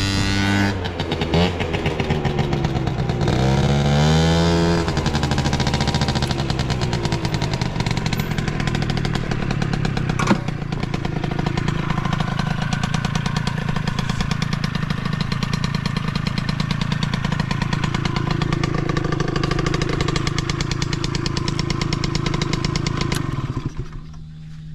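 Tuned two-stroke engine of a Suzuki Hi Walter Wolf scooter with an expansion-chamber exhaust, revved up and back down twice in the first five seconds, then running at a steady idle until it quietens near the end.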